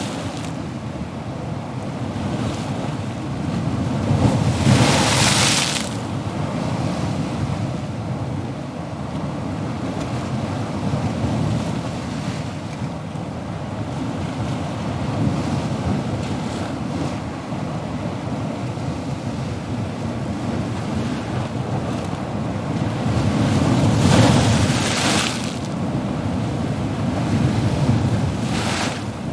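Ocean surf: a steady wash of waves with two bigger waves breaking, one about five seconds in and one about twenty-four seconds in, and a smaller one near the end.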